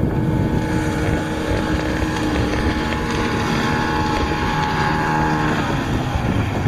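Motorboat engine going by: a steady drone whose pitch slowly falls and fades out about six seconds in, with wind rumbling on the microphone.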